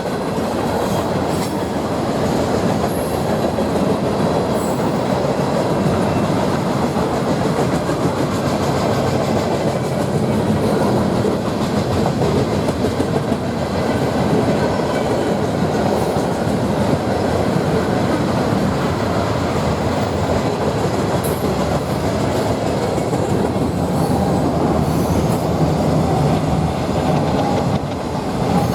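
Norfolk Southern freight train rolling past, a steady loud rumble of wheels on rail with scattered clicks.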